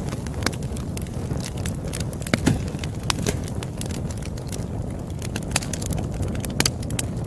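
Campfire burning with a steady low rumble and irregular sharp crackles and pops of burning wood, a few louder pops about two and a half seconds in and near the end.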